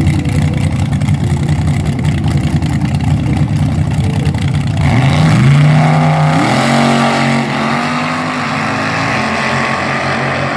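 Front-engine dragster engines: a loud, choppy low rumble, then about five seconds in the revs climb sharply and hold high for a couple of seconds before settling into a steadier drone.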